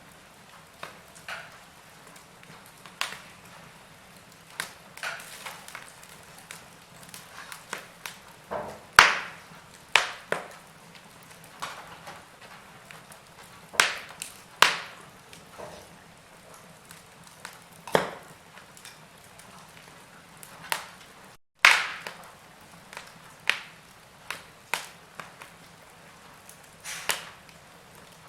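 Wood fire in a fireplace crackling, with irregular sharp pops of varying loudness over a low steady hiss. The loudest pops come about nine seconds in and just after twenty seconds, the latter right after a split-second break in the sound.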